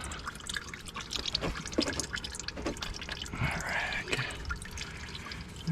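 Hot engine oil dripping and trickling from a loosened oil filter as it is unscrewed, in scattered drips with a short run of trickling a little past halfway.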